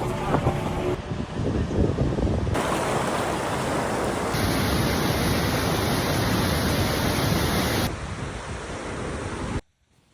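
Rushing water of a fast mountain river or waterfall, a steady loud noise heard in several short clips cut one after another, stopping abruptly near the end.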